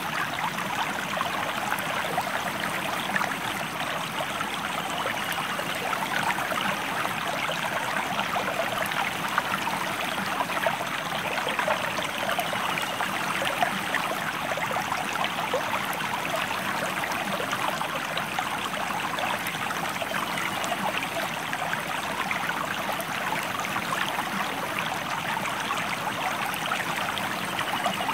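River water running over rocks: a steady rushing and splashing that does not change.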